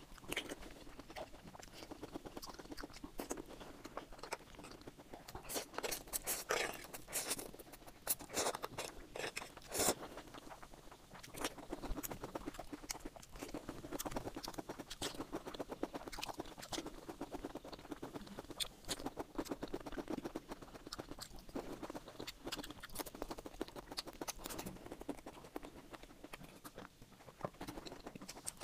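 A person chewing and biting food close to a clip-on microphone: irregular crunches and wet mouth clicks, densest and loudest in the first third.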